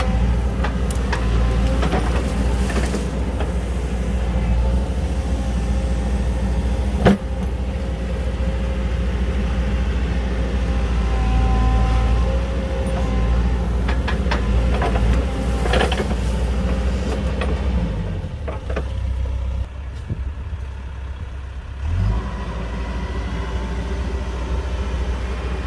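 Heavy diesel earthmoving machinery running under load with a deep, steady engine drone. A single sharp metallic bang comes about a quarter of the way in. Near three-quarters of the way the engine note drops, then briefly swells again.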